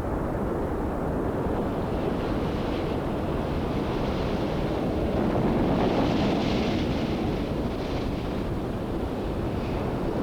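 Ocean surf rushing and breaking, a steady wash of water that swells louder about six seconds in.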